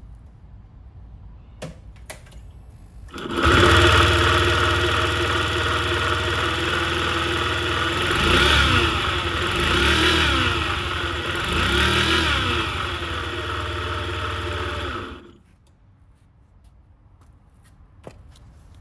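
Honda Gyro Canopy's small four-stroke scooter engine starting about three seconds in after a few clicks, running with three short blips of the throttle, then switched off near the end.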